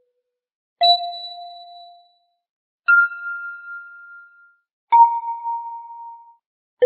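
Four bell-like chime strikes about two seconds apart, each at a different pitch, each ringing and fading away. The last one sounds right at the end.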